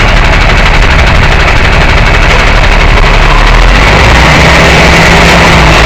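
Tow truck's engine running, heard from inside the cab as a loud, steady low drone mixed with cab noise.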